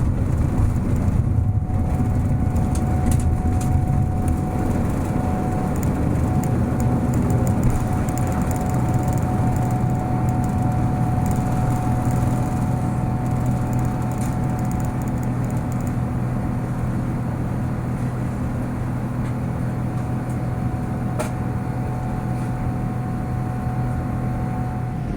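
Steady drone of a Boeing 787-9 airliner heard from inside the cabin: engine and airflow noise with a constant low hum and a faint steady whine.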